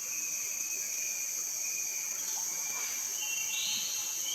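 Steady, high-pitched chorus of forest insects, with a bird calling briefly a little past halfway.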